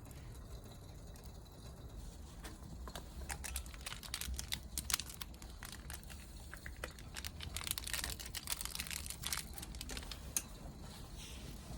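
Small wood campfire crackling, with many irregular sharp pops and snaps that come thickest in the middle.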